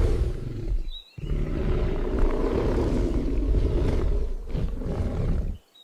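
A big cat roaring: a short roar, then after a brief pause a longer, rough roar lasting about four seconds.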